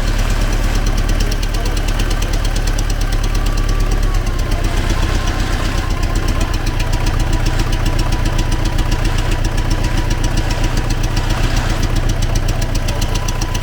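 T-40AM tractor's air-cooled diesel engine running steadily with a rapid, even knock. The owners are still trying to trace where the knock in the engine comes from.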